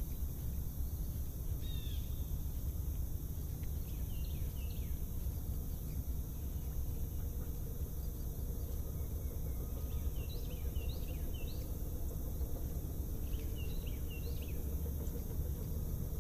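Small birds calling in short clusters of quick chirps, a few times over the stretch, over a steady low rumble.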